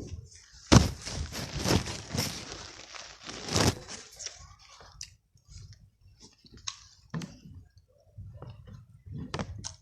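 Someone eating a sandwich close to the phone's microphone: a loud spell of crunching and rustling about a second in that lasts some three seconds, then scattered small chewing and mouth sounds.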